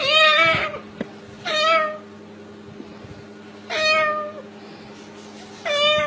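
A cat meowing four times, each meow about half a second long and roughly two seconds apart.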